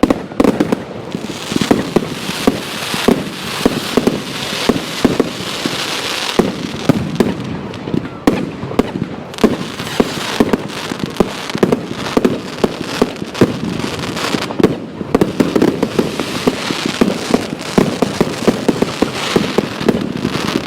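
Fireworks going off in a dense barrage: sharp bangs, several a second, over a continuous crackle.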